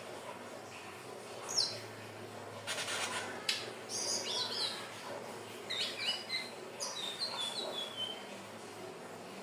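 Indigo flycatcher (sikatan ninon) singing high, squeaky, jumbled phrases of quick notes. About three seconds in there is a short buzzy rattle, and near the end a run of notes stepping downward.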